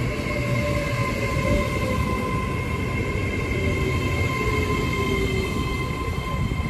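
Great Western Railway Hitachi Class 802 intercity train running past a station platform: a steady rumble of wheels on rails with a constant high whine over it.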